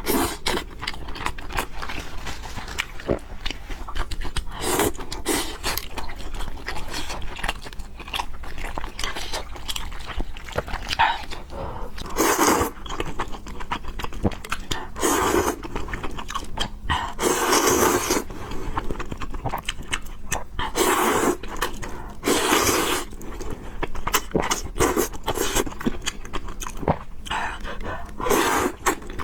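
Close-miked eating of spicy fried noodles with pork: wet chewing and biting with many small clicks, broken by about half a dozen louder noisy sounds, each lasting around a second.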